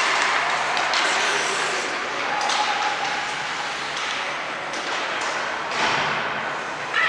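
Game-day din in a sports venue: spectators calling out over a steady noisy background, with sharp knocks and clacks now and then.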